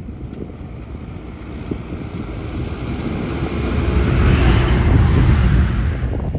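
Heavy rain with a strong gust of wind buffeting the microphone. The rumble builds over a few seconds, peaks, and eases near the end.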